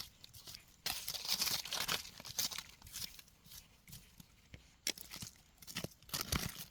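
Soil being dug and scraped apart around a millipede burrow, with irregular crunching and rustling scrapes and a sharp click about five seconds in.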